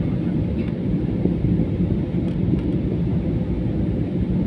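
Airliner's engines and airflow heard inside the cabin as a steady low rumble during a banked turn.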